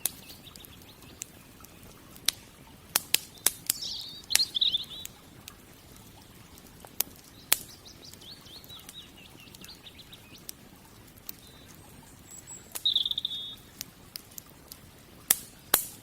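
Wood fire crackling, with scattered sharp pops of burning wood; the loudest two pops come near the end. Small birds chirp in short trilling runs several times between the pops.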